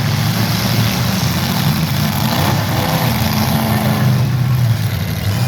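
Engines of old-iron demolition derby cars running loudly and steadily, revving a little, with no crashes heard.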